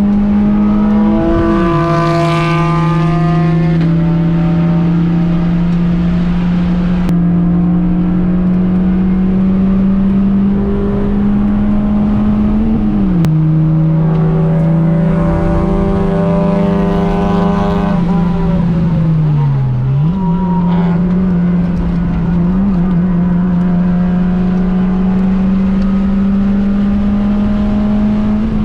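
Honda Fit's 1.5-litre four-cylinder engine running hard on track, heard from inside the cabin, its pitch held high and fairly level. The pitch drops about a second in and again near the middle, and dips briefly and climbs back a little later, as the driver shifts and lifts.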